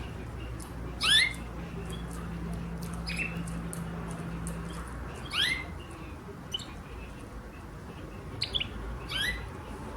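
Canary giving short, quickly rising chirps, about one every two seconds, with faint clicks and a steady low hum behind.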